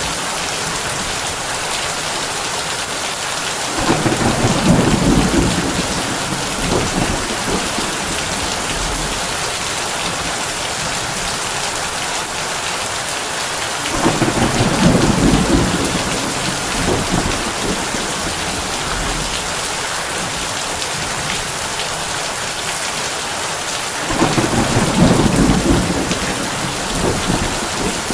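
Heavy rain falling steadily on a tin roof, with three low rolls of thunder about ten seconds apart.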